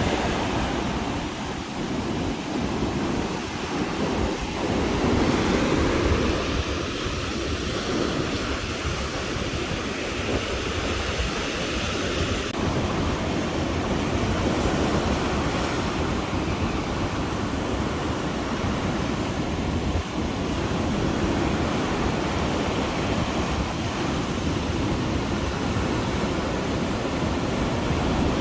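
Caribbean surf washing onto a sandy beach: a steady rush of waves, with wind rumbling on the microphone.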